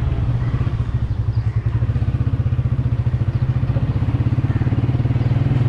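Yamaha YBR125G's single-cylinder four-stroke engine running at low revs, its firing pulses heard as a steady beat, picking up to a smoother, higher note near the end.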